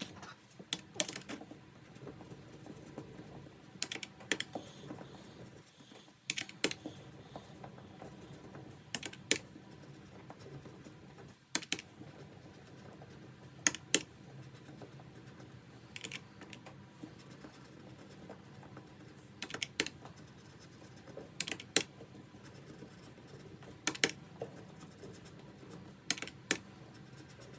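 Scattered light clicks and taps of small objects being handled on a desk, one every second or two and some in quick pairs.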